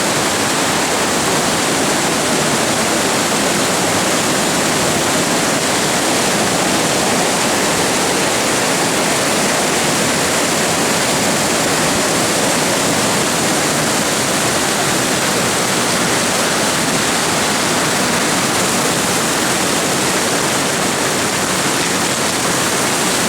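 Floodwater of Stony Creek in flash flood, running fast and heavy as a loud, steady rushing roar with no breaks.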